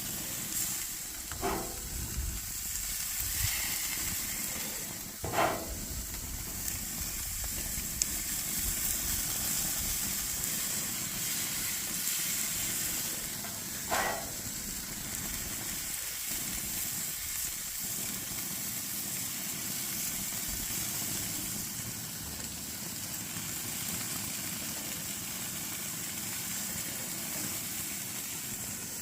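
Steaks sizzling on a gas grill with a steady hiss, the glaze just brushed on them crackling on the heat. A few short louder sounds break in about a second and a half in, around five seconds, and again near fourteen seconds.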